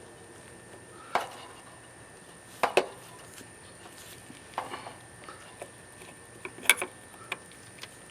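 Scattered light clicks and knocks, about half a dozen at irregular intervals, from hands and tools working a run capacitor and its wire terminals loose from an air-conditioner unit.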